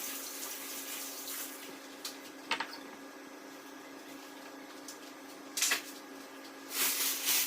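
Water running and splashing, fading away in the first couple of seconds, then a few sharp knocks and clatters over a steady low hum.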